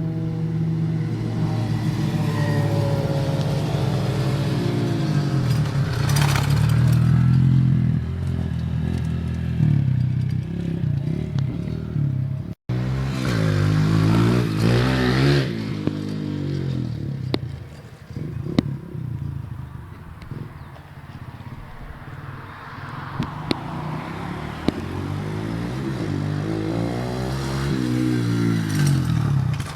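Pit bike engine revving up and falling back over and over as the bike is ridden, its pitch climbing and dropping with the throttle. The sound cuts out for an instant about twelve seconds in.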